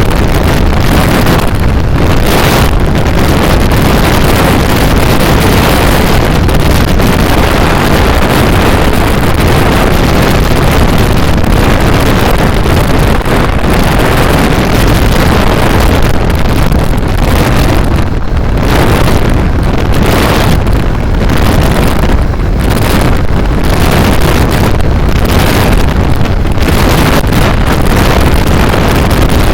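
Hero XPulse 200 4V motorcycle's single-cylinder engine running hard at speed, nearly buried under heavy wind noise buffeting the microphone.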